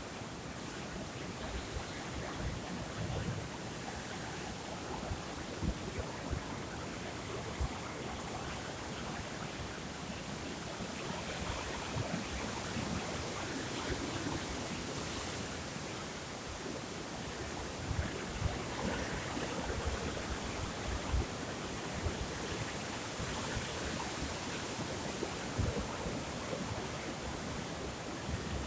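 Steady outdoor wash of sea surf and wind, with wind buffeting the microphone in irregular low thumps.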